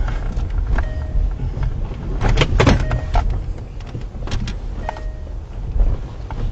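Car cabin noise: the engine and road rumble steadily while the car moves. A faint electronic two-tone beep repeats about every two seconds, and a few sharp knocks and rustles come about two seconds in.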